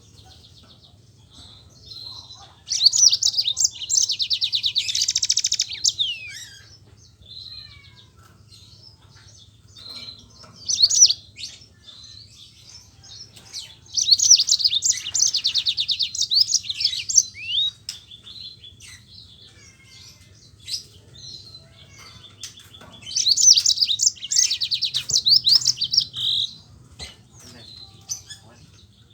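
Yellow-fronted canary (Mozambique canary) singing in full song: three long bouts of fast rolling trills, the first a few seconds in, one midway and one near the end, with short chirps between them.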